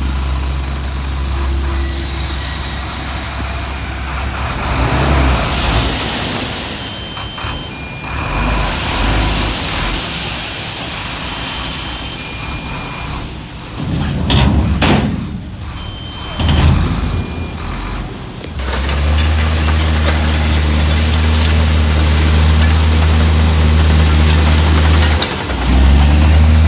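Heavy diesel earthmoving machinery at work: a reversing alarm beeps on and off over the engines, with several short bursts of air hiss. In the second half a big diesel engine runs loud and steady, dipping briefly near the end before picking up again.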